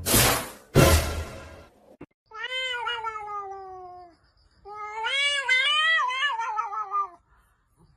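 A cat giving two long, drawn-out meows: the first falls in pitch, the second wavers up and down. They follow two short loud bursts of noise in the first second.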